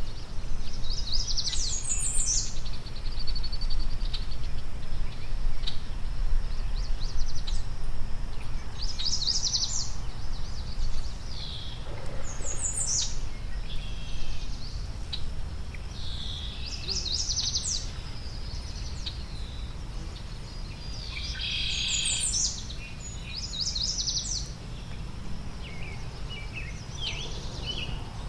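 A songbird singing short, high, quickly repeated phrases every few seconds over a steady low rumble.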